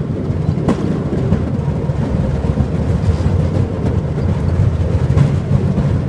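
Tourist rail cart running along the track: a steady low rumble of engine and wheels on the rails, with a sharp click about a second in and another near the end.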